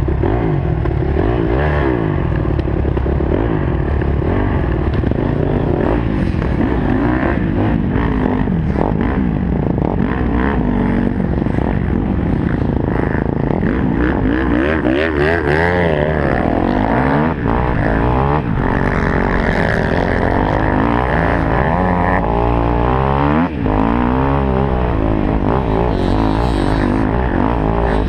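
KTM 250 SXF four-stroke single-cylinder motocross engine revving hard, its pitch climbing and dropping again and again through gear changes and throttle on and off, with scattered knocks and rattles.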